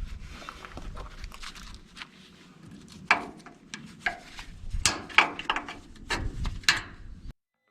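A few sharp knocks and clacks of things being handled over a low rustling, the loudest about three seconds in and around five seconds in; the sound cuts off abruptly near the end.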